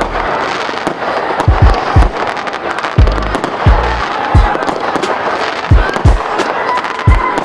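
Fireworks display: deep booms of shells bursting every half second to a second, over constant crackling.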